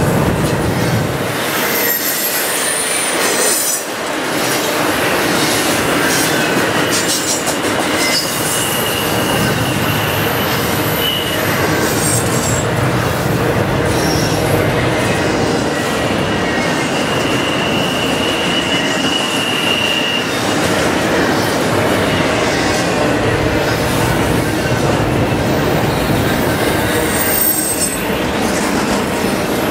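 Double-stack container cars of a freight train rolling across a steel trestle bridge, a steady loud rolling noise of wheels on rail. Thin high wheel squeal comes and goes over it, longest from about 15 to 20 seconds in.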